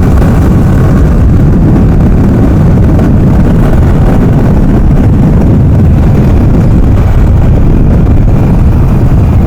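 Wind buffeting the microphone and road noise from a motorcycle on the move, a loud, steady rumble.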